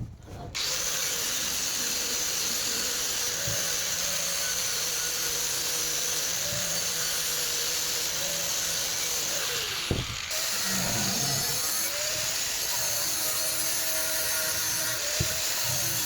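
A power tool running steadily, with a brief knock about ten seconds in.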